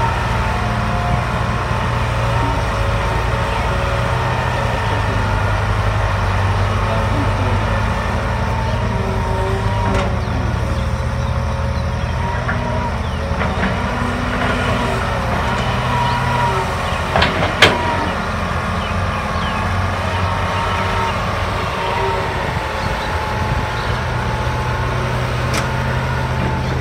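Hydraulic excavator's diesel engine running steadily, its note rising and falling with the work, with a wavering high whine above it. A few sharp knocks cut through, the loudest a little past the middle.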